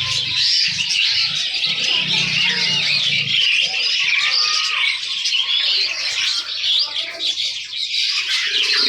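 Many caged small birds chirping and squawking at once in a dense, continuous chatter.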